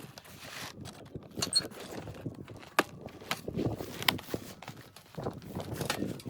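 Footsteps crunching in deep snow at an uneven pace, with a few sharp clicks in between.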